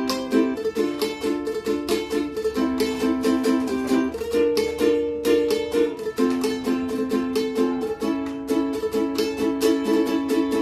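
Cowboy ukulele, a new nato-wood instrument, being played in a quick, steady rhythm as a sound check of its tone.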